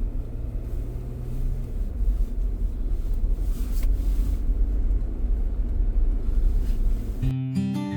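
Steady low rumble of vehicle noise. Strummed acoustic guitar music starts near the end.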